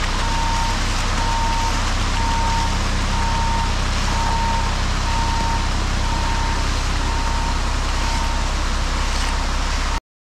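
Heavy truck backing up: a steady reversing alarm beeping about once a second over the truck's engine running. The sound cuts off abruptly near the end.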